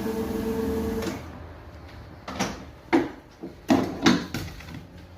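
Motor of a marble grinding and polishing machine running with a steady hum, then cutting off about a second in. Four sharp knocks and clunks follow in the quieter second half.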